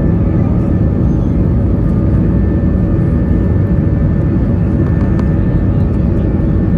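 Airbus A320-232's IAE V2500 turbofan engines running at takeoff power, a loud, steady rumble with a steady whine running through it.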